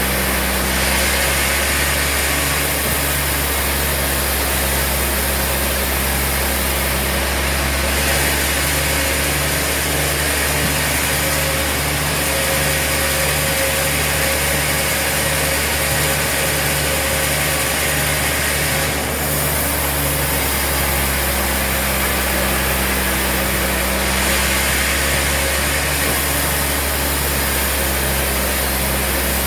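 Sawmill machinery running steadily, with a continuous hum and a low pulse about once a second; the upper noise changes a few times, around 8, 19 and 25 seconds in.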